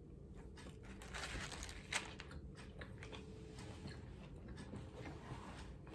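Close-up eating sounds: a person biting and chewing crunchy food, with a run of crisp crunches about a second in and a sharp click near two seconds.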